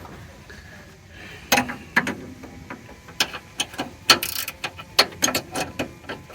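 Ratcheting wrench clicking in short, uneven strokes, starting about a second and a half in, as it tightens the nut on a steering idler arm.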